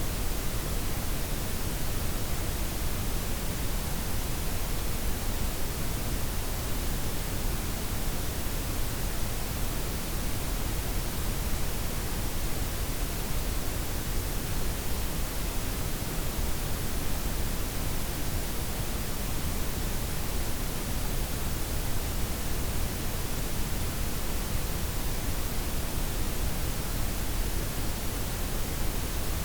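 Steady synthetic noise, a blend of white, pink and brown noise with the treble softened, an even hiss with a deep rumble underneath and no change throughout.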